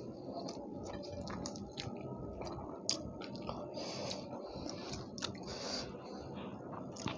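Close-up chewing and mouth smacking of people eating rice and curry by hand, with the soft squish of fingers mixing rice and curry on the plates and scattered short clicks.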